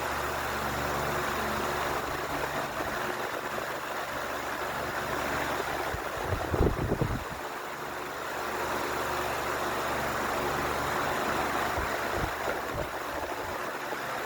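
Ventisol New 60 cm wall fan running: a steady rush of moving air over a low motor hum, with a brief low thump about halfway through.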